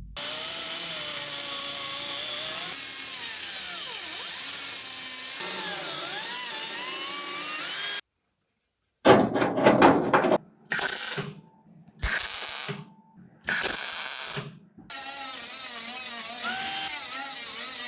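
A handheld power tool running, its pitch wavering as the load changes; after a sudden break of about a second it runs in four or five short bursts, then steadily again near the end.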